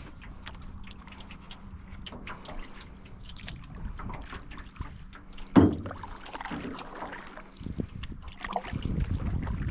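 Canoe paddling: paddle strokes splashing and water trickling off the blade, with one sharp, loud knock a little past halfway through.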